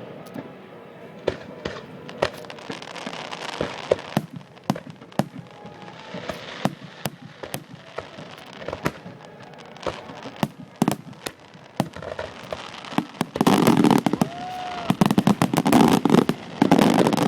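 Fireworks and firecrackers going off: scattered sharp bangs over a steady crackle, building into a dense, loud barrage about thirteen seconds in.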